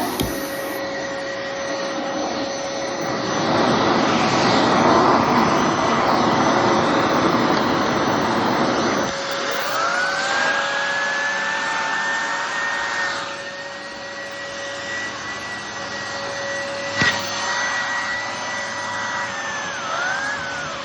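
Bissell Heavy Duty bagless upright vacuum running with its air-driven turbo brush tool on the hose: a steady motor hum under a rushing airflow. About nine seconds in the rush drops and a whistling whine rises in pitch and holds, with one sharp click later and the whine dipping and recovering near the end. The turbo tool is weak, spinning slowly.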